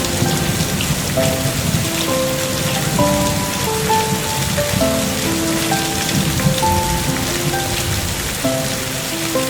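Steady rain falling, an even dense patter, under a slow, gentle melody of short held notes.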